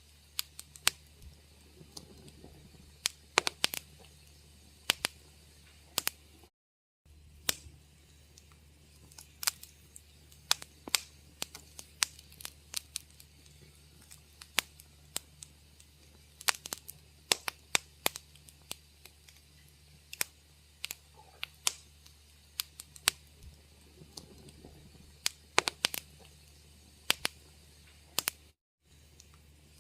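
Wood fire crackling in a fireplace: irregular sharp pops and snaps over a faint low hum. The sound cuts out briefly twice.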